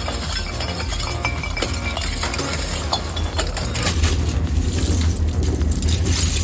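Industrial shredder crushing material: a steady low machine drone under many sharp cracks and snaps, getting louder about four seconds in.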